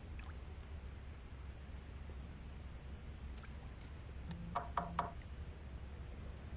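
A mobile phone buzzing three times in quick succession, signalling an incoming text message.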